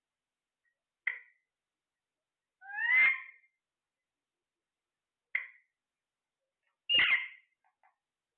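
A parrot calling in a repeating pattern: short sharp chirps about one second and five seconds in, alternating with longer calls that rise in pitch about three and seven seconds in, with silence between.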